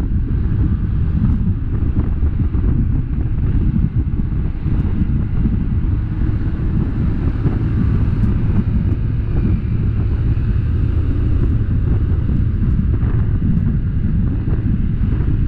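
Steady wind rumbling on the microphone over the low, even noise of a moving vehicle's engine and tyres.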